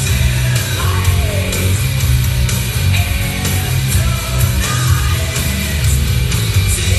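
Heavy rock music with singing, guitar and drums, played loud through an FTR-15 subwoofer and SRX712 speaker in a sound test, with heavy, steady bass.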